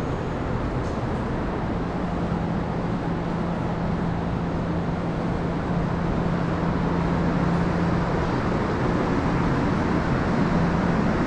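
Electric commuter train running: a steady rumble with a low hum, slowly growing louder.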